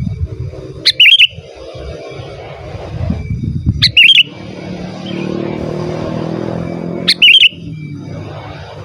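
Sooty-headed bulbul giving three short, loud chirping call phrases about three seconds apart, over a steady low rumbling noise.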